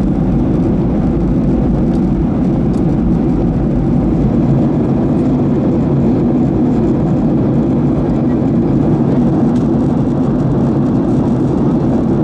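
Steady cabin noise of a Boeing 737-800 in flight on descent: the CFM56-7B engines and the air rushing past the fuselage make an even, low roar with no change in pitch or level.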